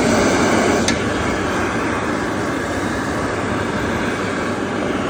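Bobrick Aircraft B-750 hand dryer blowing at full power: a loud, steady rush of air and motor noise, with one brief tick about a second in.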